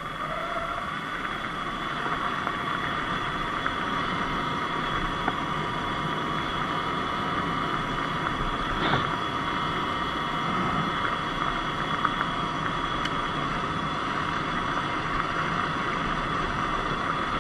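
Sur-Ron Light Bee X electric dirt bike being ridden on a dirt road: a steady high motor whine over tyre and wind noise, with a few faint clicks.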